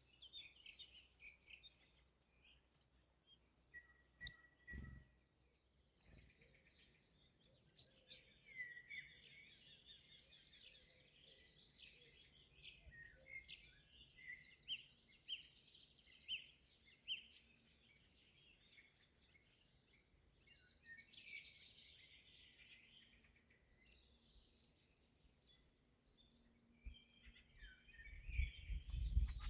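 Several songbirds singing and calling, with overlapping chirps and short warbled phrases, faint overall. There is a short low thump about five seconds in and a low rumble near the end.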